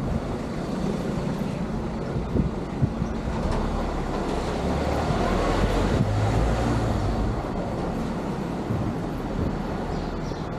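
Steady vehicle and road noise, strongest in the low end, swelling about halfway through, with a couple of brief knocks early on.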